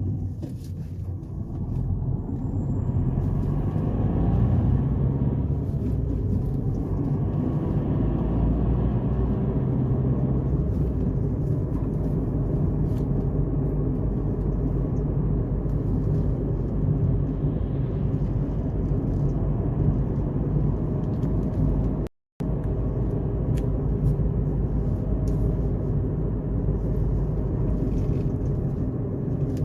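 Car on the move: steady engine and tyre rumble. The sound cuts out completely for a moment about two-thirds of the way through.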